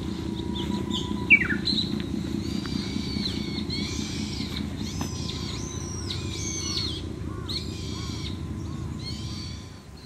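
Songbirds calling and singing, with repeated whistled phrases and chirps, over a steady low rumble. A sharp click about a second in, followed by a quick falling call.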